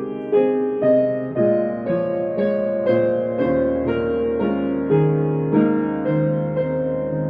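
Solo piano playing a slow, gentle piece, notes struck about twice a second and left to ring over one another.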